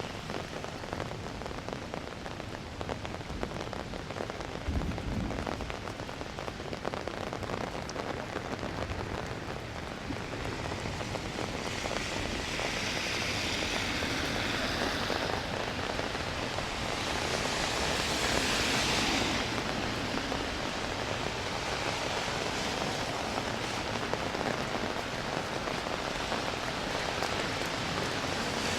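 Steady rain falling and pattering on street surfaces, swelling into louder hiss twice around the middle.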